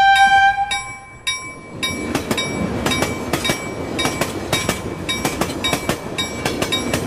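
Passenger train running at speed, heard from a coach with its window open: a steady rumble with rapid clacking of the wheels over rail joints. Background guitar music fades out about a second in.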